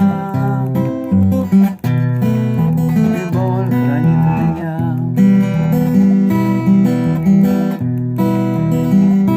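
Acoustic guitar played fingerstyle: plucked chords in a steady, even pattern, with no singing.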